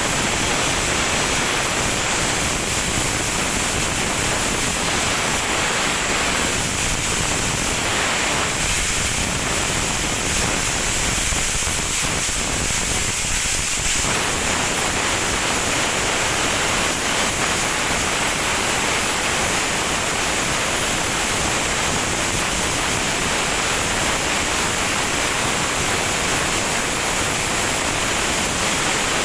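Sandblasting of a ship's hull: compressed air driving abrasive out of a blast nozzle, a loud steady hiss strongest in the high end.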